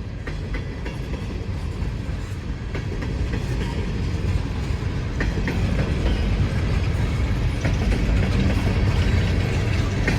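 Empty coal hopper cars of a freight train rolling past. Steel wheels click over the rail joints above a steady low rumble, which grows gradually louder as the train picks up speed.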